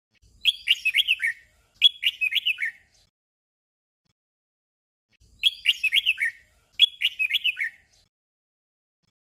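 Red-whiskered bulbul song: a short warbled phrase given twice in quick succession, and the same double phrase repeated about five seconds later.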